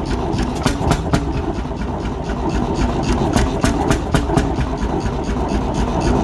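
1957 McDonald type YD two-stroke hot-bulb engine running steadily at a slow idle, with a sharp knock repeating several times a second.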